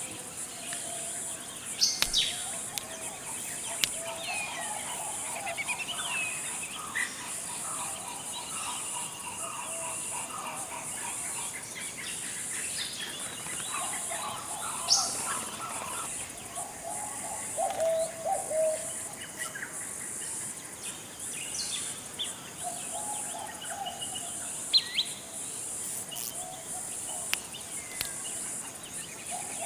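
Forest ambience: several birds calling, with sharp chirps, quick falling whistles and warbled phrases scattered throughout, over a continuous high-pitched insect drone.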